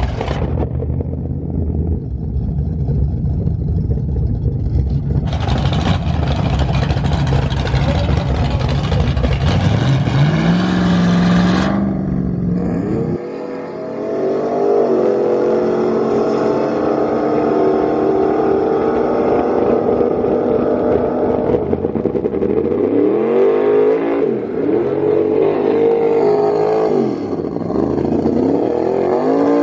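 Car engine running loud: a steady low rumble that rises in pitch about ten seconds in. Then a hard acceleration whose revs climb and drop back several times as it shifts through the gears on a drag-strip pass.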